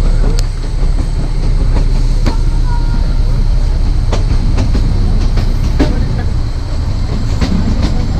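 Narrow-gauge train running, heard on board: a steady low rumble from the coach with sharp clicks at uneven intervals as the wheels pass over the rail joints.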